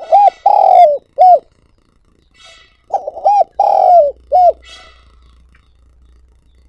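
Spotted dove giving its calling coo: two phrases of about four short notes each, the second about three seconds after the first.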